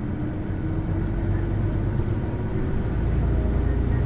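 Interior running sound of a Hino Blue Ribbon City Hybrid diesel-hybrid bus accelerating: a low rumble with a tone slowly rising in pitch, gradually getting a little louder.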